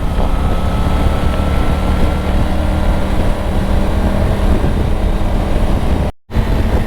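Triumph Tiger 900's three-cylinder engine running steadily at highway cruising speed, with wind noise on the microphone. The sound drops out for a moment about six seconds in.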